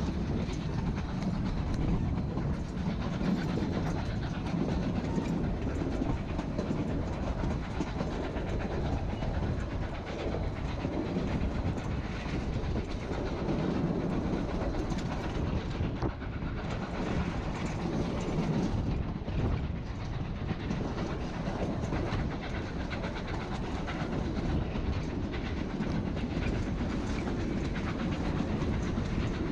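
Narrow-gauge passenger train running along the track: a steady rumble with the clickety-clack of wheels over rail joints.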